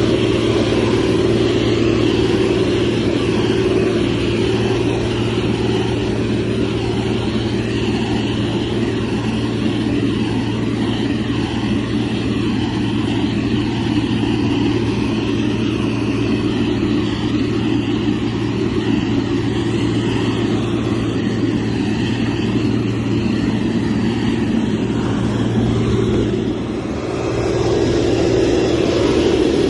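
Motor grader's diesel engine running steadily under work, with a strong low hum. Its sound drops briefly near the end, then comes back up to the same level.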